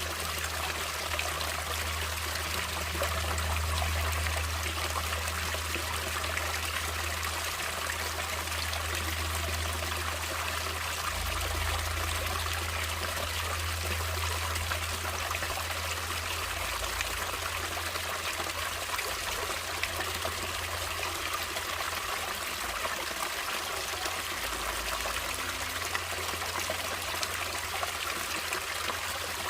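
Natural running water flowing and splashing steadily, with a low rumble underneath that swells and eases.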